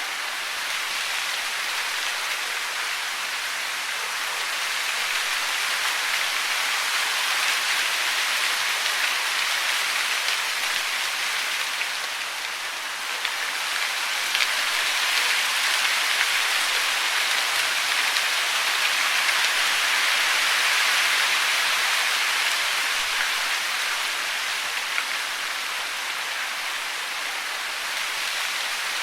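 Steady hiss of falling water, with a few faint drips, growing louder toward the middle and easing off near the end.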